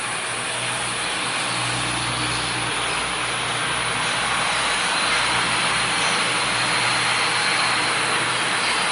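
Steady engine drone with a low hum under a rushing noise, slowly growing louder.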